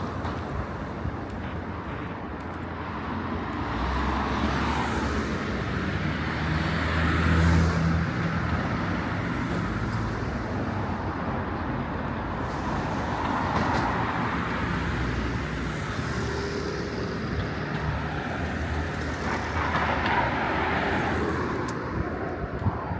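Road traffic: vehicles passing one after another in swells, the loudest and deepest pass about seven seconds in.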